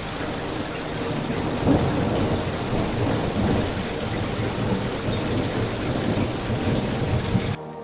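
Heavy rain with the low rumble of thunder, with a sudden louder clap about two seconds in; the storm sound cuts off abruptly near the end, leaving quieter rain.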